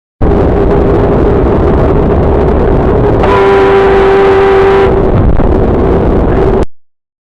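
Loud driving noise of a car on the road, engine and tyre rumble, with a car horn held for about a second and a half in the middle.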